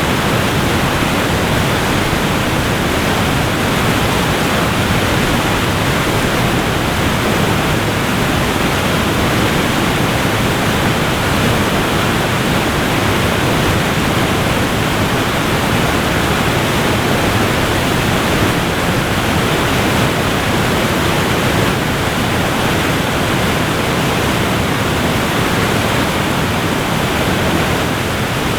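Waterfall rushing, a dense steady roar of falling water with no breaks or changes.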